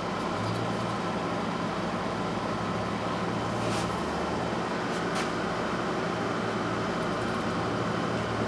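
Steady low mechanical hum, like a fan or air-conditioning unit running, with two faint clicks near the middle.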